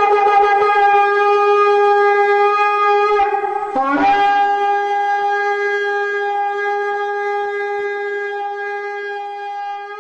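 Ram's-horn shofar blown in a long held note. About three and a half seconds in it breaks with a brief low, upward-sliding squawk, then settles into a second long steady note that slowly fades.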